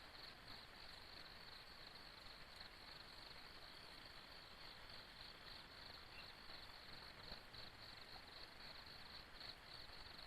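Faint insects chirping, a high pulsing call about four times a second, over a steady soft hiss.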